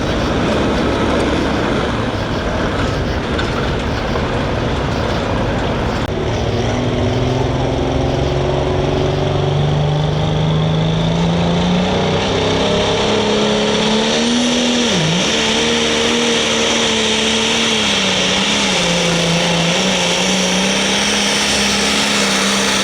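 Super stock pulling tractor's engine running flat out under load down the track. The loud roar rises in pitch over the first part, dips sharply once around the middle, then holds high with small wavers.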